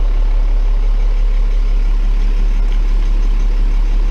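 Tow truck engine idling steadily, with its PTO engaged to drive the hydraulics.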